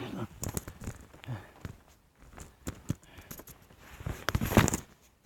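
Footsteps crunching over the forest floor, with irregular snaps of twigs and leaf litter and a louder crunching cluster about four and a half seconds in.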